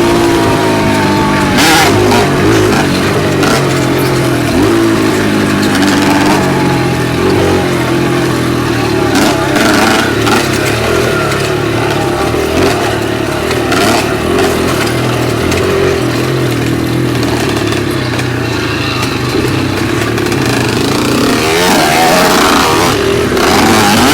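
Dirt bike engine running under changing throttle, its pitch rising and falling as the rider revs and eases off, with a few brief knocks along the way.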